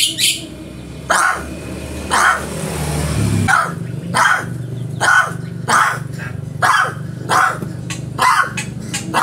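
Crow calling over and over, short harsh caws about one a second, over a steady low hum.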